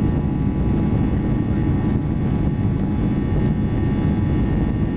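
Cabin noise of a Boeing 737-800 with its CFM56 turbofans running at a steady setting: an even low rumble with a faint steady whine over it.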